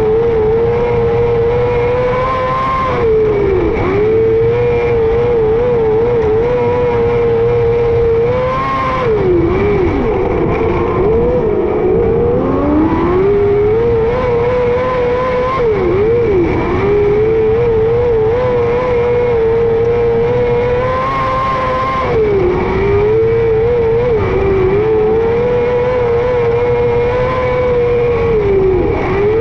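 Micro sprint car engine running at high revs at racing speed, its pitch dropping and climbing back up several times as the driver lifts and gets back on the throttle.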